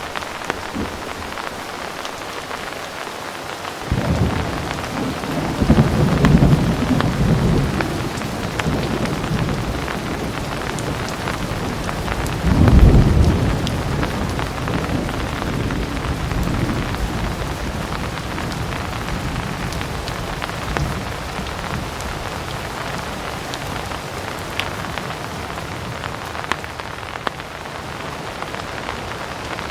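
Heavy, steady rain with scattered drops. A deep roll of thunder comes in suddenly about four seconds in, swells twice and slowly fades away.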